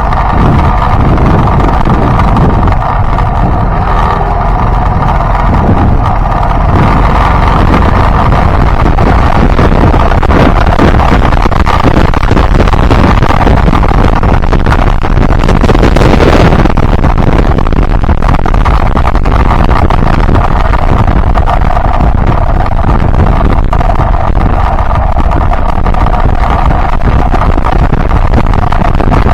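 Yamaha Byson single-cylinder motorcycle engine running steadily while riding, heavily mixed with wind buffeting on the microphone. About halfway through there is a brief louder rush of noise.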